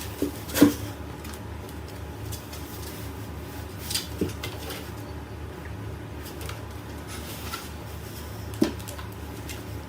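A steady low hum with a few light knocks or clicks, the sharpest about half a second in and another near the end.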